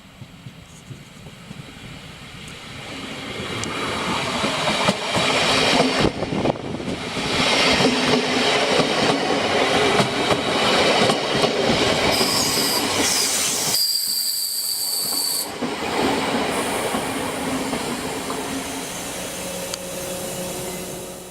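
A train running along the track, its noise building up over several seconds, staying loud and then fading. It has a rumbling, clattering wheel noise, and a high-pitched wheel squeal rings for a few seconds about midway through.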